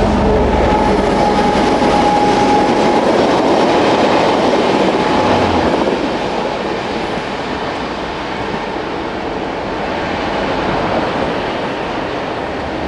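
Diesel-hauled passenger train passing close, its coaches' wheels rumbling and clattering over the rails. The noise is loudest for the first six seconds and then eases as the train draws away.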